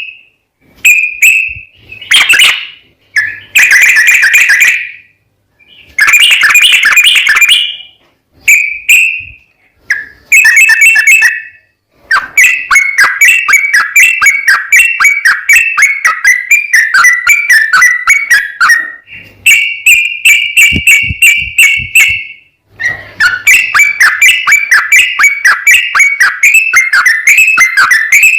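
Yellow-vented bulbul (trucukan) singing loudly: short bursts of bubbly whistled phrases with pauses between them, then from about halfway through long, fast runs of rapidly repeated notes, the continuous 'ropel' song, broken by two short pauses.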